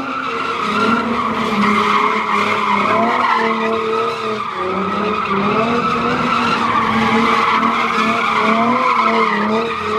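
A car doing a burnout: tyres screeching steadily while the engine revs rise and fall.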